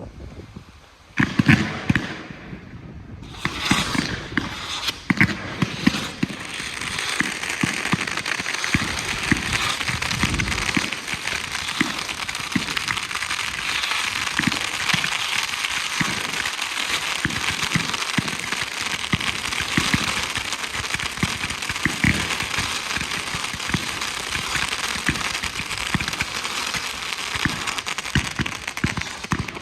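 Low-noise display fireworks going off continuously: a dense, steady crackle over many short, soft thumps, with one louder burst about a second in.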